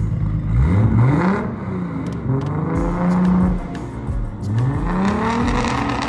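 A car engine being revved in three blips, its pitch climbing and dropping each time; it is held high for a moment on the second blip.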